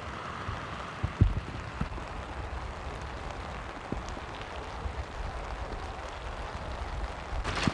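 Steady rushing of strong wind, with scattered low thumps of gusts buffeting the microphone.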